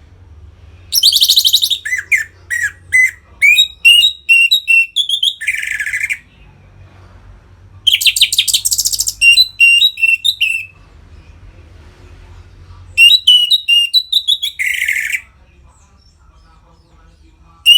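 Orange-headed thrush singing loud full 'ngeplong' song in three bouts. Each bout opens with a rapid high chatter and runs on into a string of clear, quickly repeated notes, with pauses of a couple of seconds between bouts.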